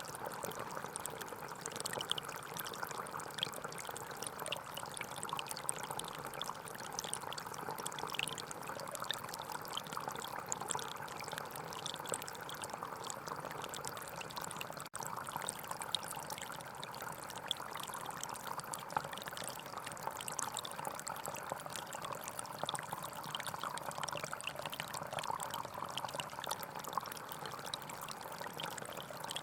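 A gentle forest stream flowing steadily, with small trickles and splashes; it drops out for an instant about halfway.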